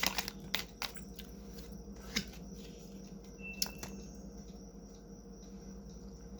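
Tarot cards being shuffled and handled: a few sharp flicks and taps in the first few seconds, then quieter handling over a steady low room hum. A brief high chirp sounds about halfway through.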